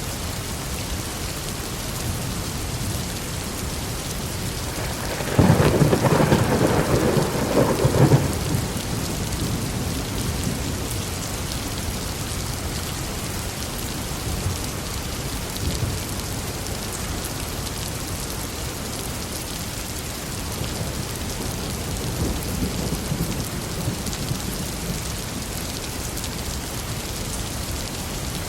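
Steady heavy rain falling on a forest, with a loud crack and rumble of thunder about five seconds in that lasts a couple of seconds and then fades back into the rain.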